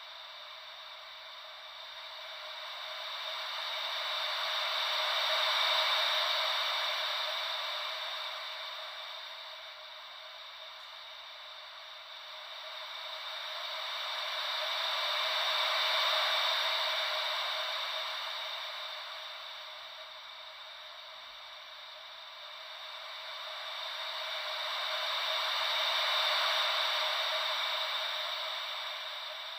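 Wave-like white noise, a steady hiss with no deep rumble, swelling and fading slowly and evenly about every ten seconds, like gentle ocean waves rolling in.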